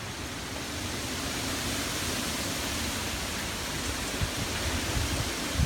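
Steady hiss of rain and wind, with low thumps of wind buffeting the microphone in the last second or so.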